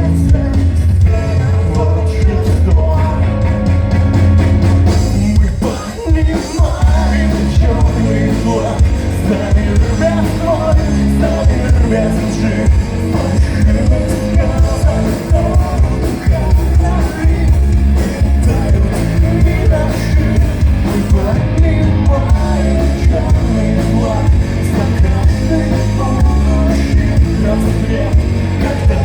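Live rock band playing with a singer, electric guitars, bass and drums, with a short break about six seconds in.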